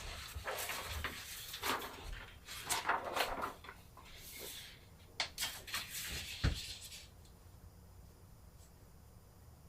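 Hand work during silkscreen plate making: irregular rustling and scraping noises with a few sharp clicks and a low thump about six and a half seconds in, then it goes quiet.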